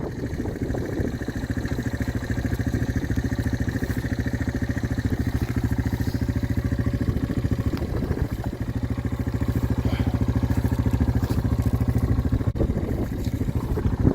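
Snowmobile engine running at a steady, fast-pulsing idle, a little louder around ten seconds in; it gives off exhaust smoke indoors, typical of a two-stroke.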